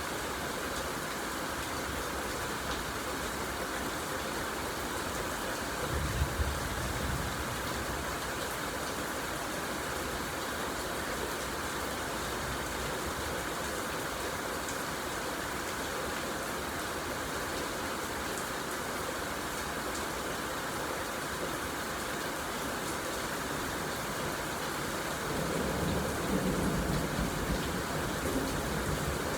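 Steady rain falling, with a short low rumble of thunder about six seconds in and a longer, louder rumble building near the end.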